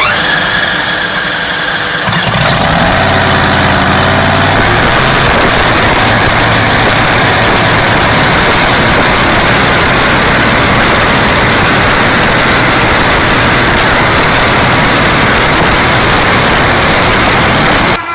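A large engine starting up: a low, steady hum for the first few seconds, then about four seconds in it fills out into a loud, steady running noise that holds until the sound cuts off.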